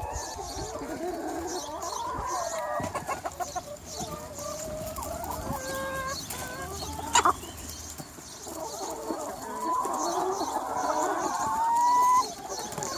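A large free-range flock of hens clucking and calling over one another. About seven seconds in there is a sharp, brief sound, and near the end one bird gives a long, rising drawn-out call, the loudest sound here.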